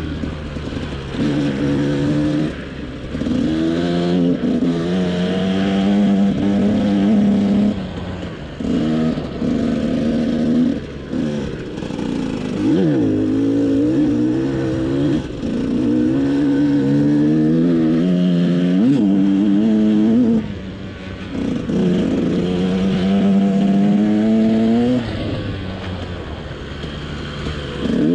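KTM SX 125 two-stroke single-cylinder motocross engine under hard riding: the pitch climbs with each pull of the throttle, then breaks off and drops at gear changes and throttle closes. A few quick sharp blips come around the middle.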